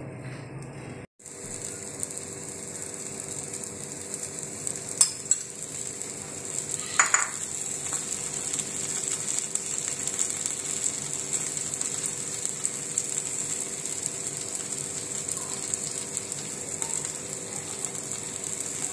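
A paratha fries in oil on a hot tawa with a steady sizzle. There are a couple of brief clicks around five and seven seconds in.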